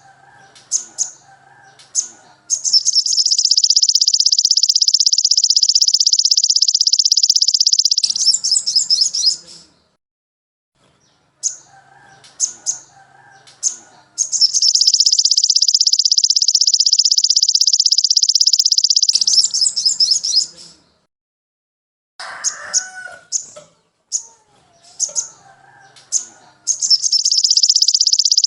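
Songbird song used as a masteran training track: bursts of short sharp chirps and lower warbling notes alternating with long, very fast, high trills of about five seconds each, three times, the last starting near the end.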